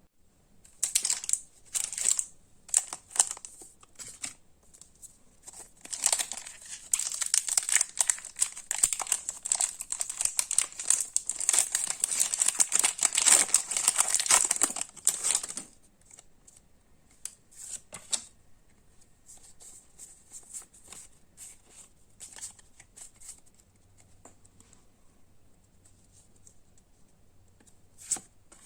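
Foil wrapper of a Pokémon card booster pack being crinkled and torn open: a few short crackles, then a long stretch of dense crackling lasting about ten seconds, after which only occasional light rustles and clicks remain.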